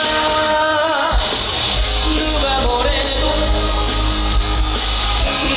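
Live band music in a rock arrangement with electric guitar. A held note with vibrato ends about a second in, then the full band comes in with a heavy bass line.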